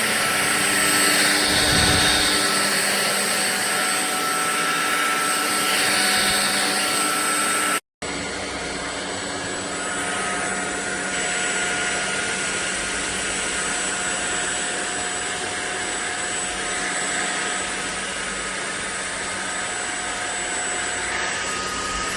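Ultenic U16 Flex cordless stick vacuum running steadily, a constant motor hum with a high whine over it. The sound drops out for an instant about eight seconds in and then runs on.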